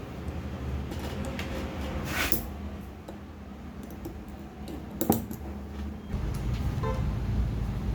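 Small metal parts of a turbocharger being handled while a bearing bush is fitted: a short scrape about two seconds in and a sharp click about five seconds in, over a steady low hum that grows louder near the end.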